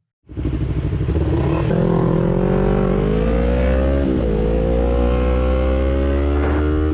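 Motorcycle engine accelerating, its pitch climbing, dropping briefly about four seconds in at a gear change, then climbing again.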